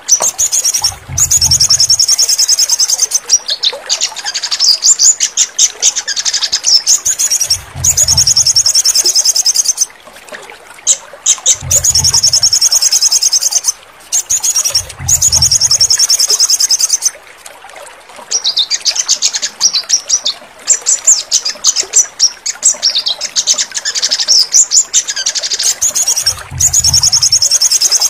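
Sogon birdsong: rapid, high, trilled chirping phrases a few seconds long, repeated with short gaps. A low thump sounds five times.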